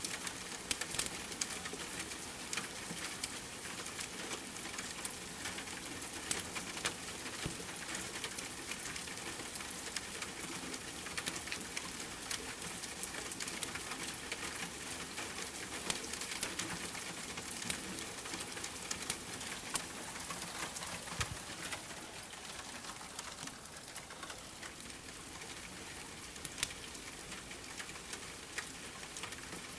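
Steady rain pattering, mixed with the scattered sharp pops and crackles of a wood fire. It gets slightly quieter about two-thirds of the way through.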